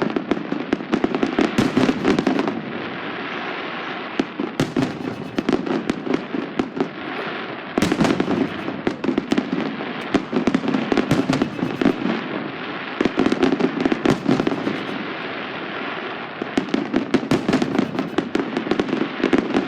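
Fireworks going off: dense runs of rapid crackling pops in waves a few seconds long, with short lulls between.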